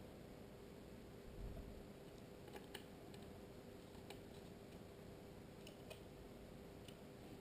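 Near silence with a few faint, sharp clicks spaced a second or so apart: small plastic parts of an IP camera being handled and set down.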